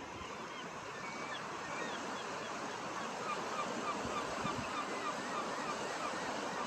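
Many seabirds calling at once, a steady chatter of short overlapping calls that thickens after about a second, over the wash of surf and wind.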